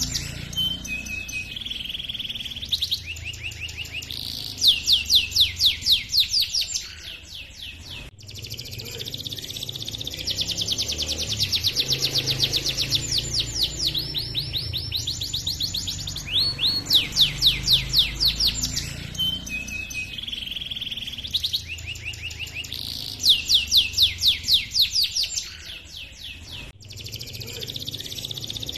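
Domestic canary singing a long rolling song: fast runs of quickly repeated notes, several a second, alternating with held whistled notes and short chirps, with brief softer lulls. A low hum runs underneath.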